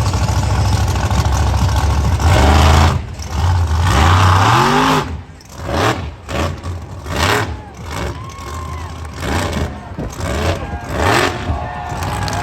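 Monster truck engine running hard, revving up twice in the first few seconds, then blipped in short, repeated bursts about once a second with brief drops in between.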